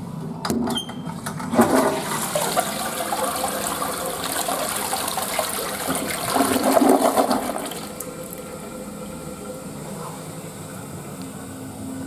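Toilet flushing: a click, then a loud rush of water with a second surge, dropping after about eight seconds to a quieter steady hiss of the refill.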